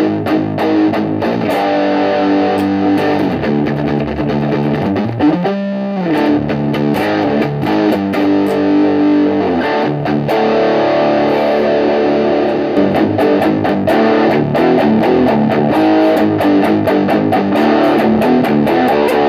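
Electric guitar played through a Shredhead British Distortion pedal: distorted chords and picked riffs, with a brief swooping pitch bend about six seconds in.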